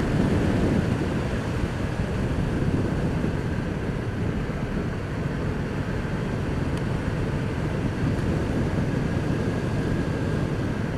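Motorcycle riding steadily along a road: a continuous drone of engine and road noise mixed with wind rush, with no changes in pace.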